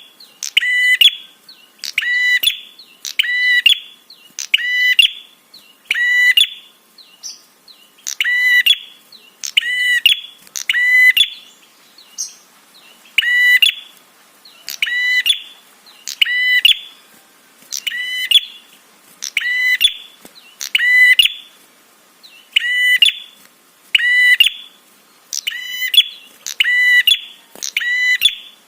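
Prinia (prenjak) calling: a loud, sharp call repeated about once a second, each a quick buzzy chirp, with a couple of brief pauses along the way.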